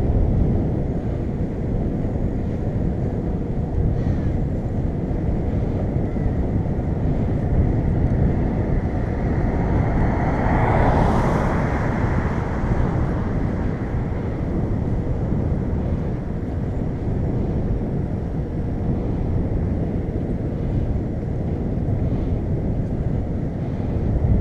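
Steady wind noise on the microphone of a moving bicycle, with one vehicle passing about ten seconds in, its sound swelling and then fading.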